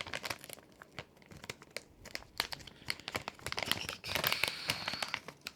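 Plastic candy packaging crinkling in irregular crackles as hands rummage through an opened bag of small popping-candy packets.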